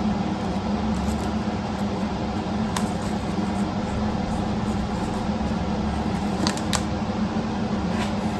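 Steady mechanical hum, with a few light clicks of metal parts being set on a connecting-rod balancing fixture: one about three seconds in and two close together about six and a half seconds in.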